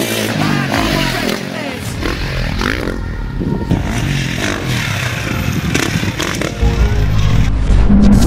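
Motocross bike engines revving up and down in quick rises and falls. Heavy bass music comes in near the end.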